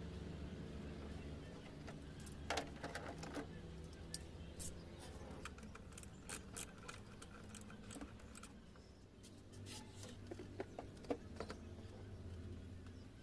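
Scattered light metallic clicks and clinks, like tools or small engine parts being handled, over a steady low hum.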